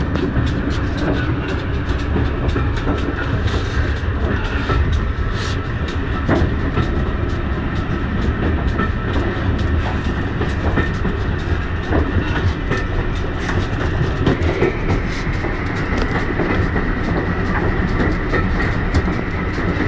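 Vintage railway carriage running along the line, heard from inside the coach: a steady rumble of wheels on rail, with frequent clicks and knocks from the track and the rattling coach.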